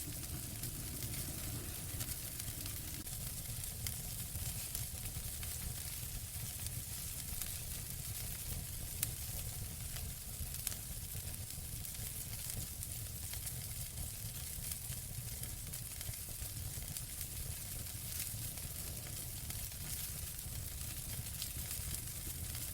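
Wood fire burning in a fireplace: a steady low rumble and hiss with scattered sharp crackles and pops, two louder pops about nine and eleven seconds in.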